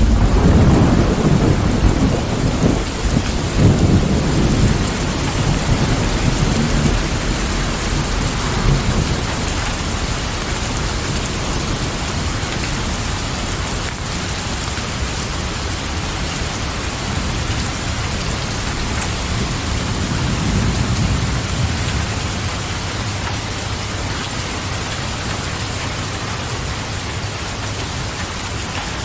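Steady rain with thunder: a long roll of thunder rumbles over the first several seconds and fades away, then a fainter rumble comes about two-thirds of the way through.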